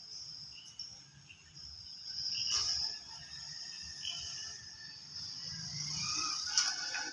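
A steady high insect trill, typical of crickets, with short bird chirps over it. Two brief clicks, one a couple of seconds in and one near the end.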